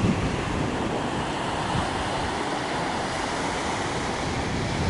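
Big ocean waves surging and breaking on the shore in a steady rush, with wind gusting against the microphone, loudest near the start.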